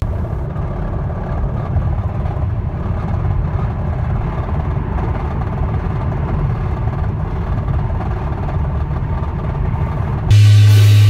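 A car engine running with a dense, rough low rumble and no clear rhythm, likely the Hyundai Nu GDI engine making the abnormal noise that came before its failure. The sound cuts off shortly before the end, when music resumes.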